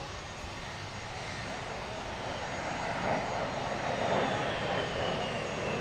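North American XP-82 Twin Mustang's two V-12 piston engines droning in flight, growing louder about halfway through, with a faint falling whine near the end as it passes.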